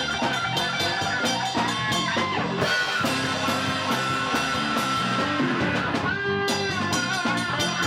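Rock music with electric guitar and drum kit playing, a band performing.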